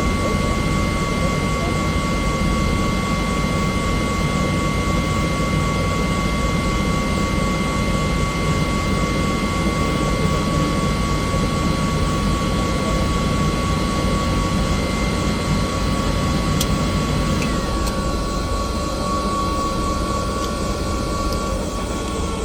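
Bell helicopter's turbine engine and rotor running steadily: a loud rumble under a high, steady whine. After about eighteen seconds the rumble eases and the whine starts to fall in pitch as the engine winds down.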